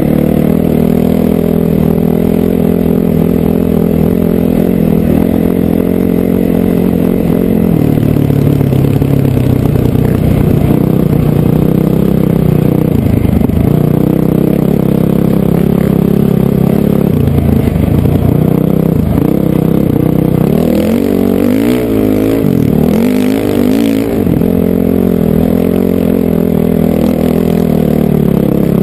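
Honda CRF450R dirt bike's single-cylinder four-stroke engine running under way, its pitch rising and falling with the throttle, with a stretch of quick on-and-off revving about two-thirds of the way through.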